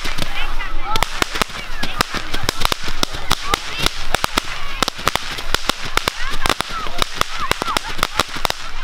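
Low-level fireworks firing from the ground: a rapid, irregular string of sharp cracks and pops, several a second.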